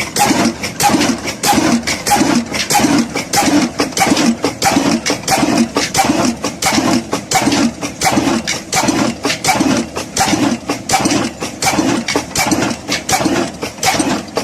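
Old Ruston Hornsby stationary diesel engine running steadily at slow speed, with an even beat of sharp knocks about two times a second.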